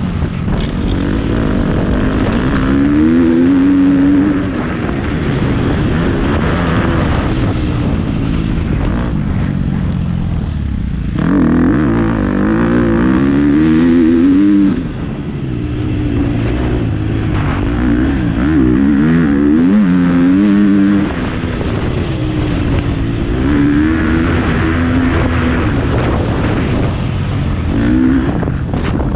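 Motocross dirt bike engine being ridden hard, revving up and shifting through the gears over and over, with the pitch climbing and dropping back each time. A brief throttle-off lull comes about eleven seconds in, and then it pulls hard again.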